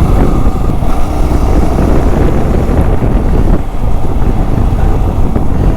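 Wind rushing over the microphone of a moving Yamaha R15 V3 motorcycle, a steady loud noise with the bike's running sound underneath.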